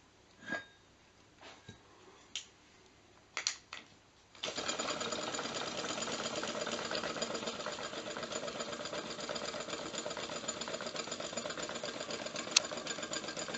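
A few scattered clicks and knocks, then about four and a half seconds in a rapid, even mechanical clatter starts suddenly and runs steadily on: a small Stirling engine running without a flywheel. One sharp click stands out near the end.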